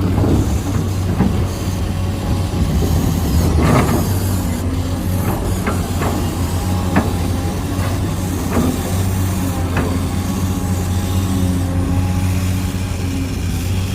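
Motors and gears of a Huina 1593 radio-controlled construction model running with a steady hum, with sharp clicks now and then.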